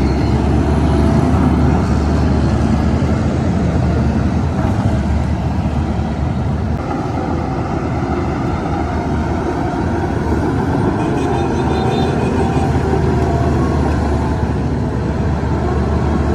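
Heavy diesel earthmoving machinery, a bulldozer and dump trucks, running with a steady engine drone. A faint high whine comes in about eleven seconds in.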